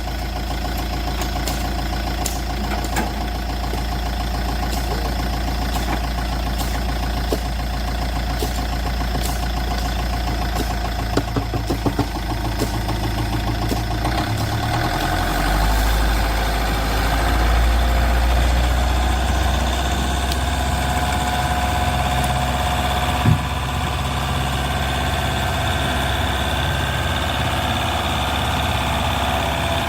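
A small vehicle's engine or motor running steadily, with a few sharp clicks partway through and a drop in its low hum about halfway through.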